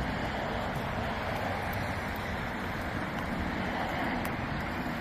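Steady road traffic noise: an even rushing hiss with no single vehicle standing out.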